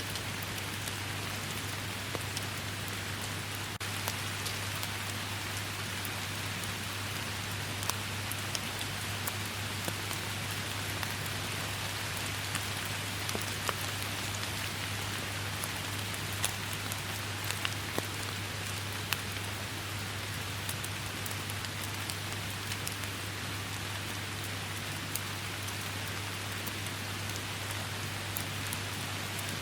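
Rainstorm: steady rain pouring down, with many individual drops ticking sharply throughout, over a steady low hum.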